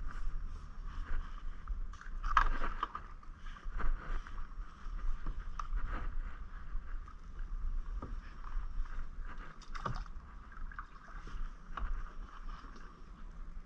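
Kayak paddling: the paddle dips and splashes in the water every second or two, with an occasional sharper knock, over a steady low rumble and hiss.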